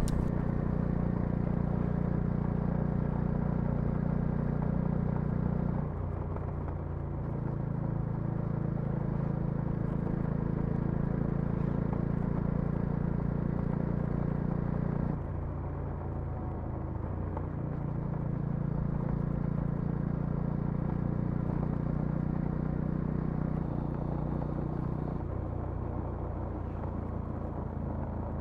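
Bajaj Dominar 400's single-cylinder engine and exhaust running steadily under way. The engine note steps down suddenly twice, about six and fifteen seconds in, then holds steady again.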